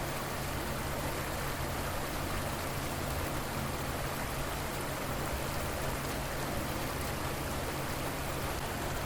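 Steady rushing and splashing of a flowing river, an even, unchanging wash of water noise.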